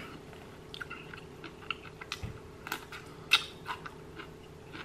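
Close-miked chewing with soft wet mouth clicks and a scatter of small crisp ticks, over a faint steady hum.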